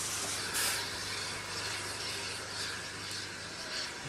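Sound-fitted model of an L1 class steam locomotive standing with a steady hiss of simulated steam from its sound unit, with a low hum that fades out about three and a half seconds in. The locomotive is at rest, waiting for the points to change.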